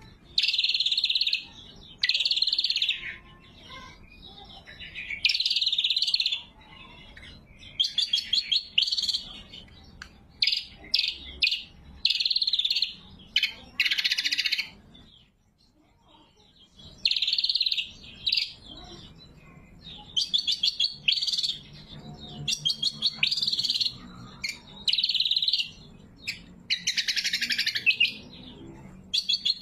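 Cucak kombo, a green leafbird, singing loud, high phrases about a second long, one after another every second or two. Between them come runs of quick chattering notes, with a short pause about halfway through.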